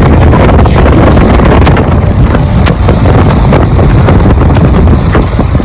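Loud wind buffeting the microphone on a moving pickup truck, over the vehicle's running noise.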